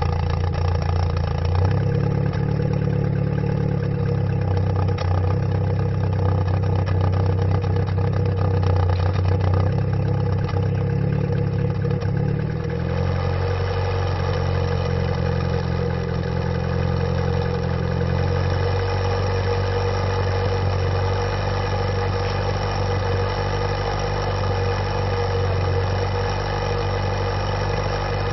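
Volkswagen Golf Mk2 engine idling steadily. Its note changes slightly about halfway through and again a few seconds later.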